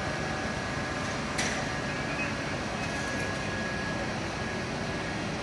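Steady vehicle engine and street noise, with a short hiss about a second and a half in.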